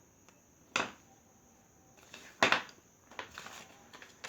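Two sharp taps, one under a second in and one about two and a half seconds in, followed by a few fainter ticks and scratchy sounds toward the end.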